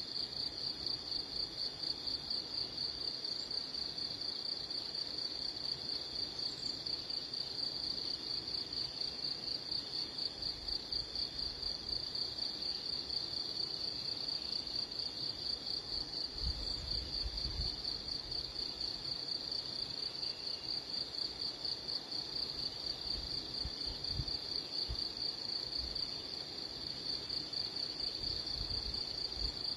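A steady, high-pitched insect trill, cricket-like, pulsing rapidly without a break and without change in pitch. A few low thumps come in the second half.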